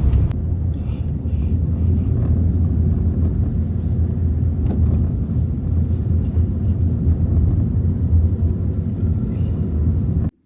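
Strong blizzard wind buffeting the microphone: a steady, loud low rumble that cuts off suddenly near the end.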